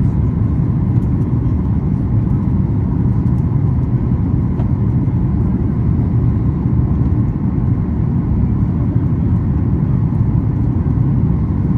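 Steady, low-pitched cabin noise inside the economy cabin of a Boeing 737-8 MAX airliner, the constant sound of the aircraft's engines and air systems.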